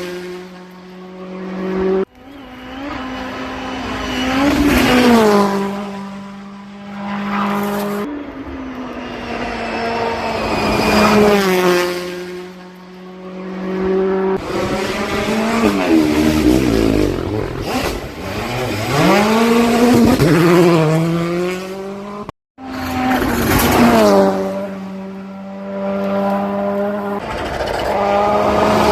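Rally cars driven flat out on a special stage, their engines revving hard, rising in pitch through the gears and dropping as they lift off. It comes as a run of short clips of different cars, cut off abruptly several times.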